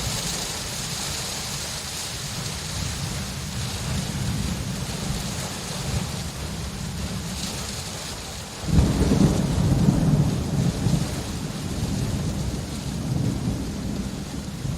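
Steady rain falling, with a roll of thunder breaking in about two-thirds of the way through, loud and deep for a few seconds before fading back under the rain.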